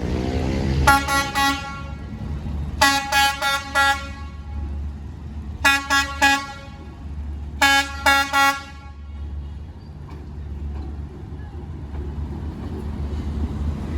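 D12E diesel locomotive's horn sounding four bursts of several quick short toots in a row, over the steady low rumble of the running diesel engine. The toots stop about eight and a half seconds in, and the engine rumble carries on and gets a little louder toward the end.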